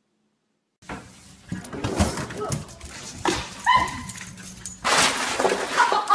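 A dog barking and whining, starting about a second in, with a few short yelps in the middle.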